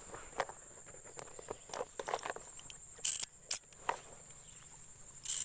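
Steady high-pitched insect chirring, with scattered short clicks and rustles over it; the loudest rustling bursts come about three seconds in and again near the end.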